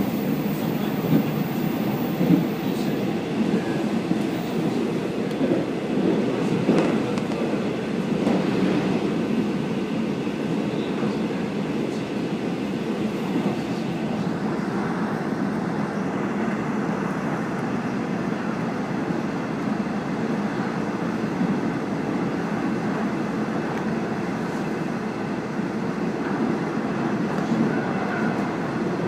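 Steady running noise of a diesel railcar heard from inside the carriage as it travels along the line, with a few faint rail-joint clicks.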